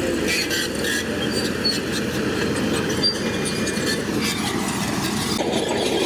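Shantui crawler bulldozer's diesel engine running under load, with short high squeaks and clanks from its steel tracks.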